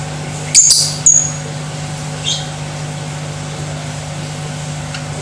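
Lovebird giving sharp, high-pitched chirping calls: two loud ones about half a second apart near the start and a fainter one around two seconds in. A steady low hum runs underneath.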